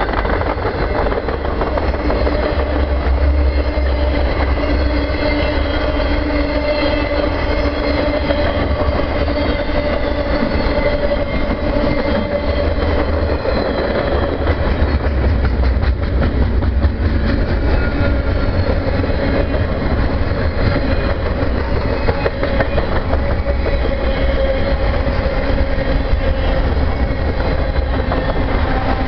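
Freight train cars rolling past steadily: double-stack container well cars, then auto racks, with a continuous rumble of steel wheels on rail and a clickety-clack of the wheels.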